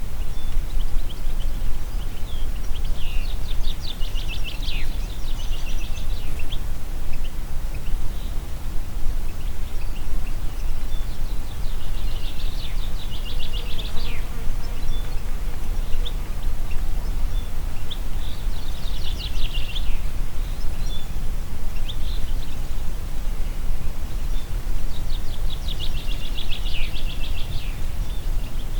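Steady low wind noise, with a songbird singing a phrase of rapid repeated high notes four times, each phrase lasting two to three seconds and coming back every six or seven seconds.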